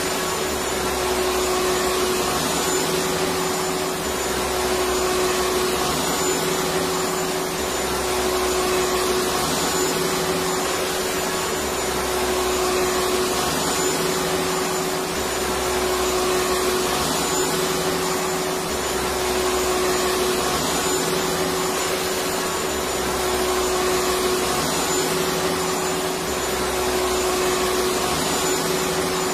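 Vacuum cleaner running steadily: an even rush of air with a constant motor whine, and a low hum that swells and fades every few seconds.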